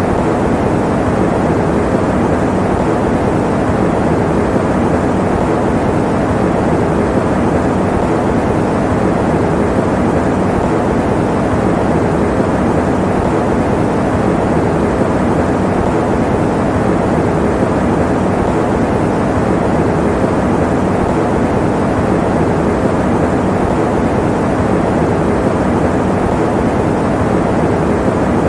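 Electric fan running steadily: an even, unbroken rushing noise, deep and dull rather than hissy.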